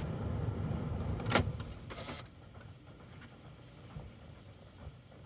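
Low rumble of a car heard from inside the cabin, with a sharp click about a second and a half in; the rumble dies away after about two seconds, leaving only faint ticks.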